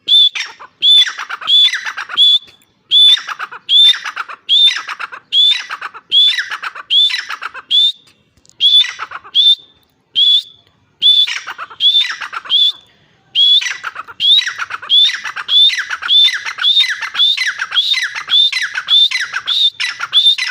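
Grey francolin hen (teetar) calling: a long run of short, sharp, high notes repeated over and over, broken by a few brief pauses and coming faster near the end.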